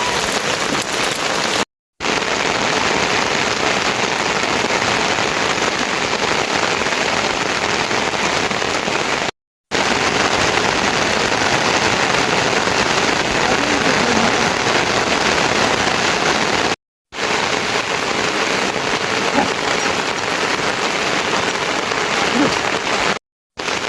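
Heavy rain falling steadily, a dense even hiss of drops. It is broken four times by a short silent gap, about every seven seconds.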